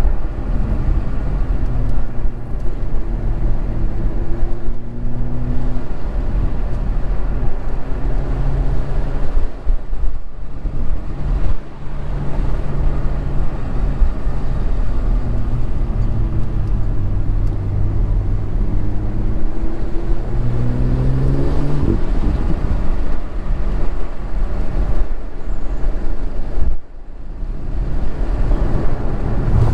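BMW engine and exhaust under a hard drive, the engine note climbing and falling as revs rise and drop, with short dips in the sound about ten, twelve and twenty-seven seconds in, over a steady road rumble.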